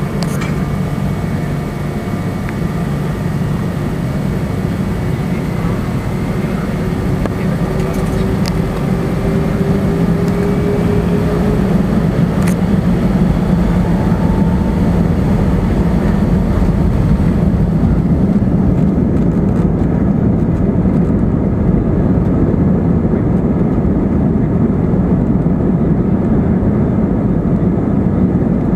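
Jet airliner's engines during the takeoff roll, a steady loud rush and rumble that grows gradually louder, with a faint whine gliding upward about a third of the way in.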